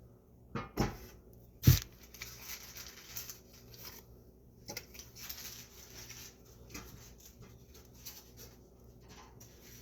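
Kitchen handling sounds: a few sharp knocks in the first two seconds, the loudest just under two seconds in, then scraping and rustling with small clicks.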